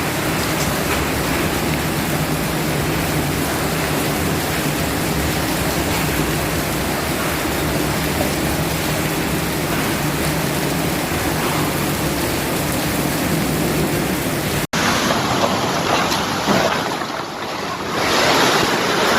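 Loud, steady rushing noise of a heavy storm: strong wind and pouring rain. About fifteen seconds in it cuts abruptly to a brighter, hissier stretch of the storm that swells louder near the end.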